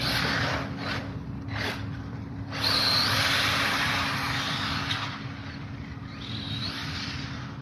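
Radio-controlled car's motor whirring in bursts as it speeds, the longest and loudest burst in the middle, with brief high squeals about three seconds in and again near the end.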